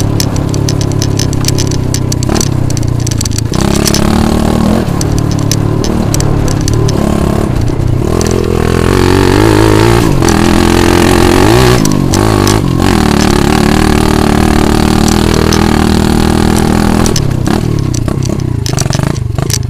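80cc pit bike engine running under way, its pitch rising and falling as the throttle is opened and closed, with a few brief drops in the sound.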